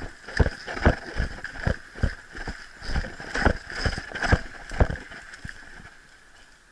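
Footsteps of a player moving quickly over the ground, about two heavy footfalls a second, slowing and stopping about five seconds in, over a steady high buzz.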